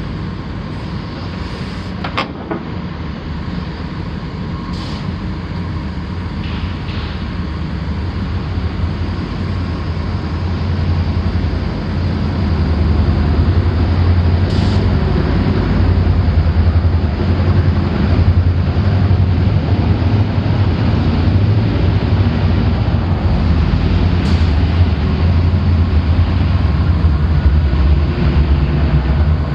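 Komatsu PC450LC-8 excavator's diesel engine running steadily with a deep drone. It grows louder about ten to twelve seconds in and then holds at the higher level. A few faint clicks sound over it.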